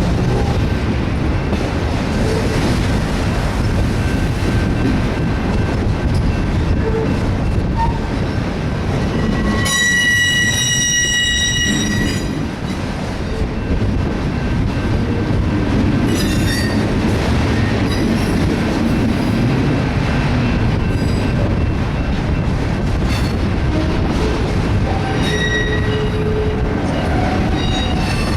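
Auto rack freight train rolling past with a steady rumble of wheels on rail. A high wheel squeal sets in about ten seconds in and lasts about two seconds, with fainter squeals later.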